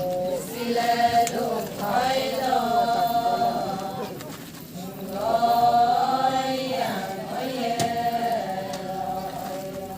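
Group of voices singing an Adi ponung chant in unison, with long held notes: the chorus's sung response between the lead singer's verses.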